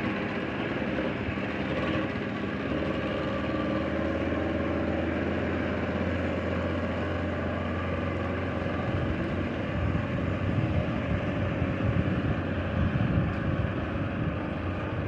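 Speedboat engines running steadily at a constant pitch. A rougher, uneven low rumble joins from about nine seconds in.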